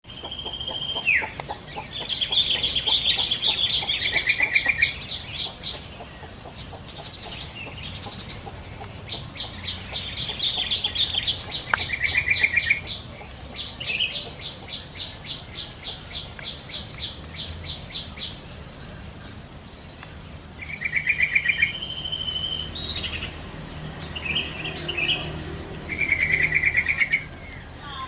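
Yellow-vented bulbuls (trucukan) calling: repeated bouts of rapid chattering trills made of quick clicking notes, with a few short, sharp, higher notes about seven to eight seconds in.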